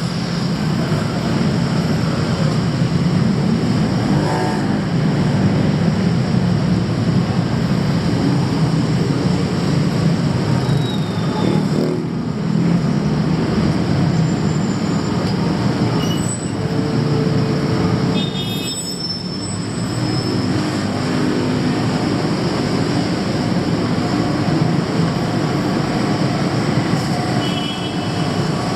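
Steady, loud rumble of moving vehicles, with a few short high-pitched tones near the middle and again near the end.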